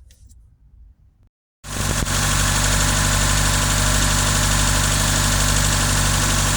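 Subaru 2.5-litre EJ flat-four engine idling steadily, cutting in suddenly about a second and a half in after a brief silence; before that only faint ticks.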